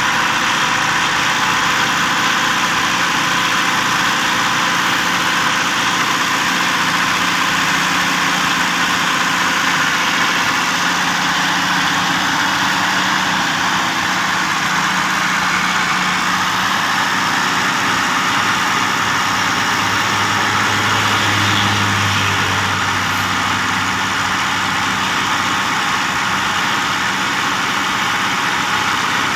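Massey Ferguson 285 tractor's diesel engine running steadily at idle, with a deeper note swelling briefly about two-thirds of the way through.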